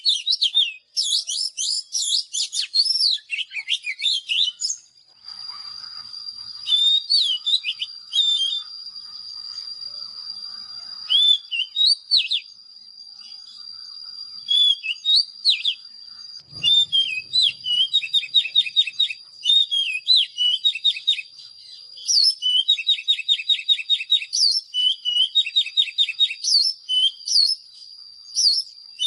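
Oriental magpie-robin singing: a run of varied whistled phrases and quick chattering notes, with short pauses between phrases. A steady high thin tone runs underneath from about five seconds in.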